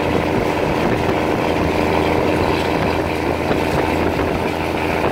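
Steady running noise of a moving diesel passenger train heard from on board: the drone of the engine with the rumble of wheels on the track, unbroken throughout.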